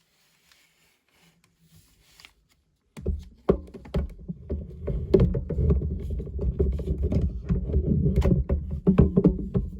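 Electronic sound effects from a Lights and Sounds Optimus Prime action figure's built-in speaker, starting suddenly about three seconds in after a few seconds of faint handling. The sound is loud and dense, full of sharp clicks, and still going at the end.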